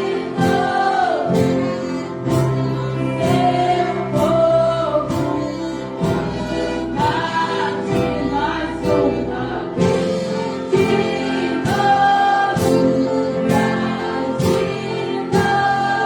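Church orchestra and choir performing a gospel worship song: sung voices over held instrumental chords, with a steady percussion beat about once a second.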